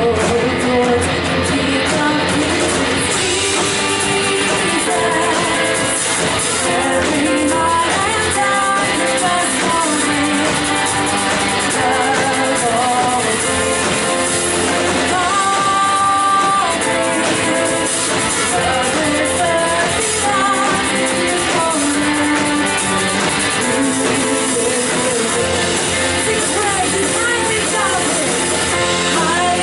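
Live worship band music: electric guitar and drum kit under a sung melody.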